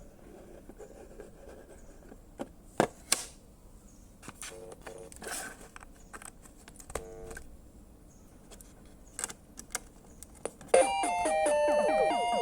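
Scattered clicks and knocks and a few brief stepped electronic beeps, then near the end loud synthesized music with fast arpeggiated notes starts abruptly. The music is played back through a homemade Covox parallel-port DAC under test.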